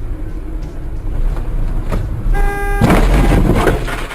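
Car driving with a low road rumble, then a short car horn blast a little over two seconds in, followed at once by a loud, rough burst of noise lasting about a second: the sound of a collision.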